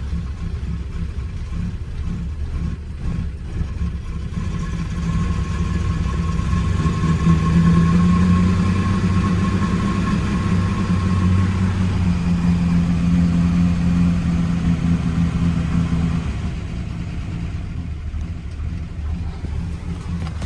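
Plymouth Belvedere engine running just after a freezing cold start, idling low without fast idle. The revs rise about six seconds in, hold higher, then drop back to a low idle around sixteen seconds in.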